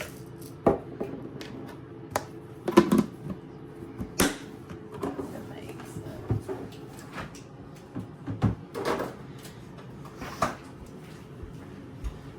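Kitchen utensils and dishes being handled: scattered clicks and knocks, about a dozen, the loudest about three and four seconds in.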